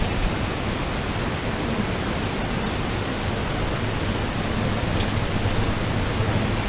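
Steady outdoor background hiss with a low hum under it, and a few faint, brief high chirps from small birds.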